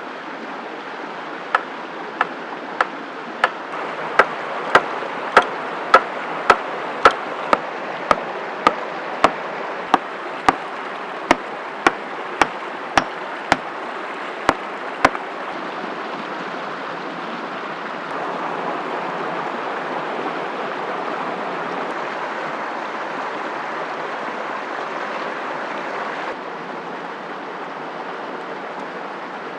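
An axe striking wood in a steady run of sharp knocks, a little under two a second, about two dozen blows over some thirteen seconds. Behind them is a steady rushing background that swells for several seconds after the blows stop.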